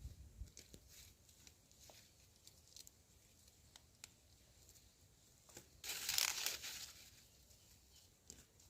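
Dry maize leaves and husks rustling and tearing faintly, with scattered small crackles and one louder burst of about a second just past the middle.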